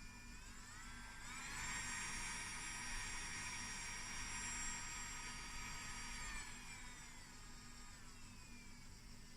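Small electric nail drill motor whining: it winds up in pitch over the first second or so, runs steadily at speed for about five seconds, then winds down and fades.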